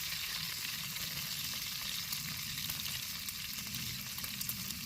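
Taco-seasoned bacon frying in hot grease over a campfire: a steady sizzle with small scattered pops of spitting grease.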